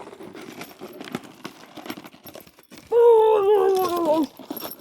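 Dog whining: one long, high, wavering whine about three seconds in that drops in pitch as it ends, after a few seconds of faint clicks and rustling.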